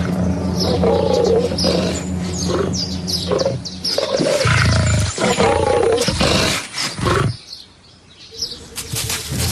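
A big cat growling and snarling in repeated short calls, with birds chirping at the same time.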